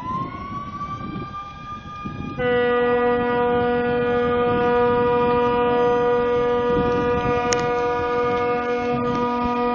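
Horns sounding: first a siren-like tone winds up in pitch and then holds. About two and a half seconds in, a louder, steady, deep horn chord joins, typical of a large ship's horn.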